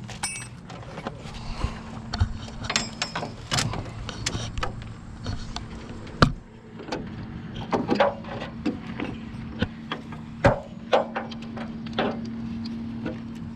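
Tie-down straps and hooks being worked on a trailer: scattered metal clicks, rattles and knocks, the sharpest about six seconds in and again about ten seconds in, over a steady hum.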